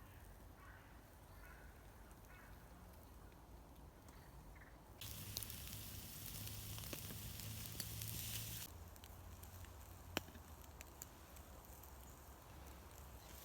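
Food sizzling over a campfire: a hiss with faint crackles that starts abruptly about five seconds in and stops just as suddenly a few seconds later. A single sharp click follows.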